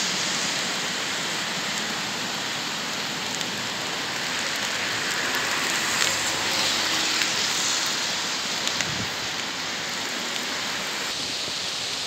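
Steady hiss of sleet, snow mixed with freezing rain, with a double-deck regional electric train running past, slightly louder around the middle.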